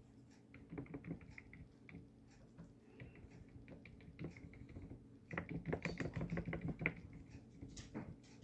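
Stiff bristle brush dabbing gouache onto paper in quick, light taps, with a dense fast run of taps about halfway through.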